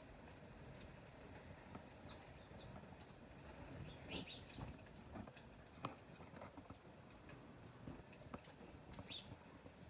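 A small bird giving a few faint, short high chirps that fall in pitch, among scattered light taps and clicks.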